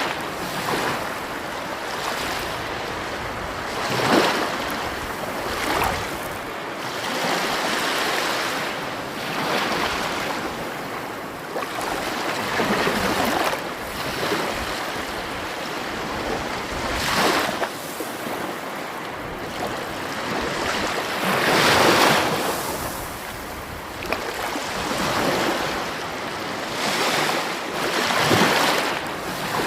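Sea waves breaking on a stony shore, a continuous rush of surf that swells and washes in every few seconds, the loudest wash about two-thirds of the way through.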